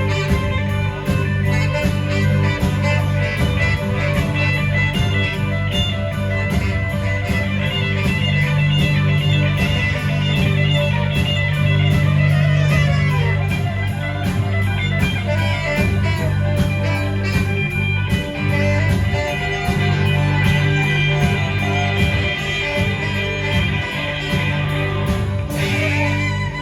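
Live rock band playing an instrumental passage, with guitar over a driving drum beat and bass.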